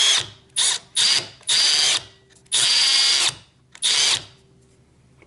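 Milwaukee M12 brushless hammer drill run free with nothing in the chuck, set to hammer mode, in about six short trigger bursts, each starting with a brief whine as it spins up.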